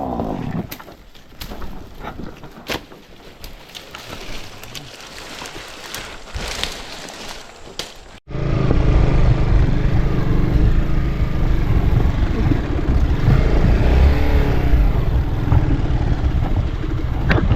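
Motorcycle riding: a quieter stretch with scattered knocks and clicks, then after an abrupt cut about eight seconds in, a loud, steady motorcycle engine running.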